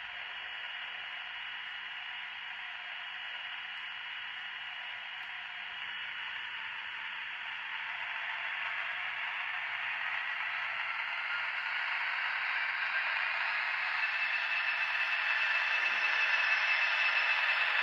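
N-scale model diesel locomotive running on the track: a high, hissing whirr of its small motor and wheels, with a faint whine, growing steadily louder as it approaches.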